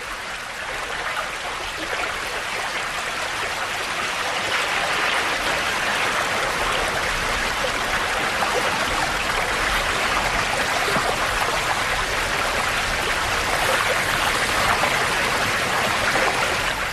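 Steady rush of river water running over rocks, an even hiss.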